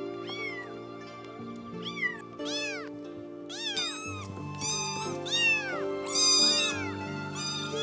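A cat meowing over and over in short, high-pitched meows that rise and fall, about a dozen in all, the loudest a little past the middle. Background music of steady held notes plays underneath.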